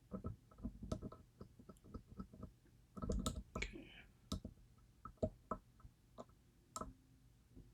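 Small metallic clicks and taps of a lock pick working the sharkfin pins of a DOM IX Twinstar lock under tension, quick and irregular. They come in a louder flurry about three seconds in, then thin out to a few single ticks.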